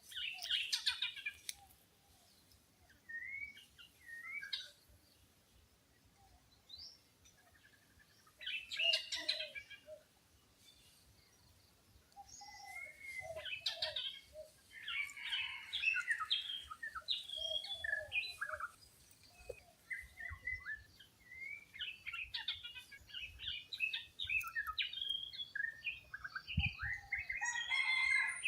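Wild birds chirping and calling: short chirps and whistles, scattered at first and crowding together from about halfway in.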